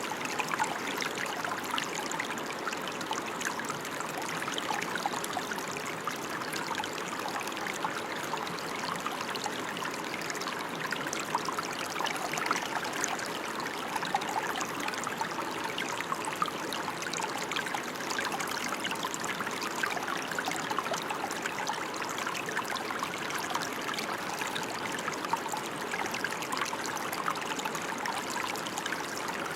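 Steady rain falling, an even hiss of dense drops with many fine individual drop ticks, unchanging throughout.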